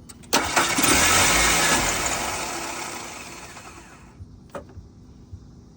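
1991 Mercury Topaz engine cranked and catching with a sudden start about a third of a second in, then fading away over the next few seconds as it fails to keep running. The owner puts this down to low fuel pressure from a failing fuel pump.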